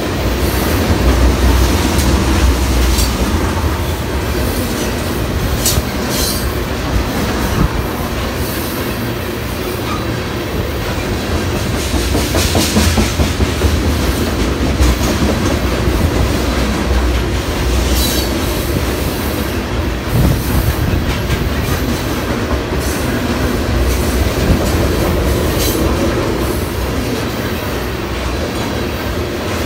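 A freight train of tank cars rolling past close by: a steady low rumble of steel wheels with clacking over the rail joints. Brief high-pitched wheel squeals come through a few times.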